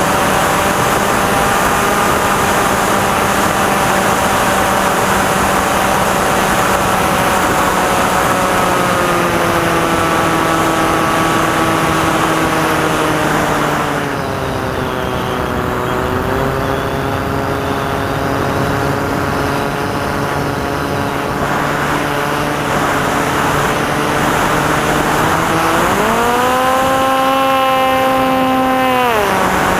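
Electric motor and propeller of a Maxi Swift FPV model plane, heard on board over wind rush, whining at a steady pitch. The pitch sinks about halfway through as the throttle eases, then jumps up sharply a few seconds before the end and falls back just at the close.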